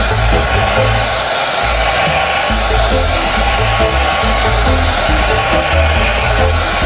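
A steady, loud rushing noise, like air blowing, over background music with a pulsing bass beat.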